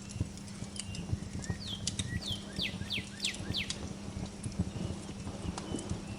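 Wood fire crackling with many small pops and snaps over a steady low hum. A songbird chirps now and then, and from about one and a half seconds in it sings a quick run of about six falling notes.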